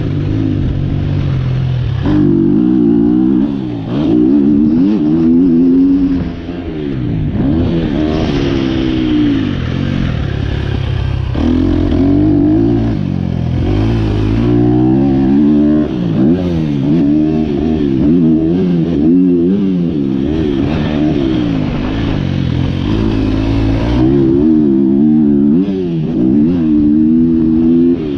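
2023 KTM 250 SX-F's single-cylinder four-stroke engine, running through an Akrapovic Evolution Line exhaust, revving up and falling off again and again as the bike is ridden hard around a motocross track.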